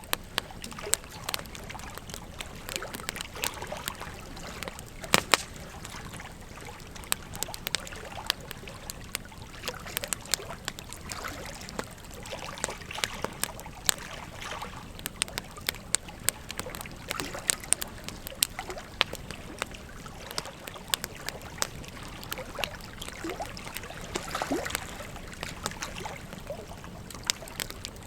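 Wood fire crackling, with frequent irregular sharp pops and snaps, over the steady rush of a flowing river.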